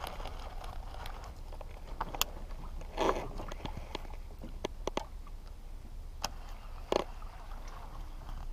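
A kayak and the gear in it knocking: sharp light clicks and knocks at irregular intervals, with a short scrape about three seconds in.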